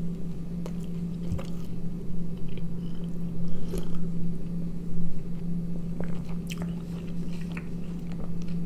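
Close-miked chewing and mouth sounds of a person eating a tortilla-wrapped snack, with scattered short smacks and clicks, and a sip from a glass around the middle. A steady low hum runs underneath.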